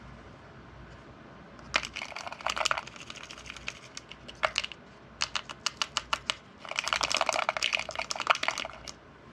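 Light clicking and rattling of small hard objects being handled: a few clicks about two seconds in, a run of evenly spaced ticks around the middle, then a dense clatter near the end.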